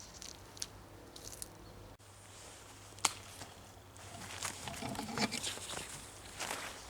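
Footsteps crunching in snow, irregular at first with a sharp click about three seconds in, then coming closer together in the second half.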